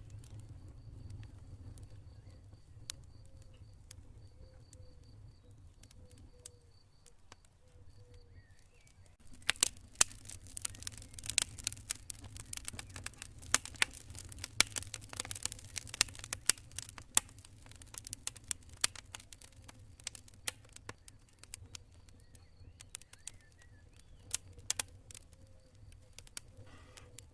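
Wood fire burning with sharp crackles and pops over a low steady rumble; the crackling is densest through the middle. Faint, high cricket chirping comes in short repeated runs in the first third and again near the end.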